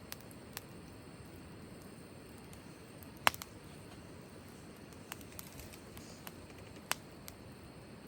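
Wood fire burning in a fire stand: a low steady rush with scattered sharp crackles and pops, the loudest about three seconds in.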